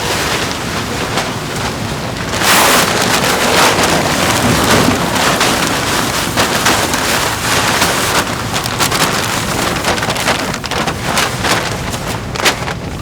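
Snack-factory production machinery: a loud, dense hiss with many small rapid clicks, growing louder about two and a half seconds in.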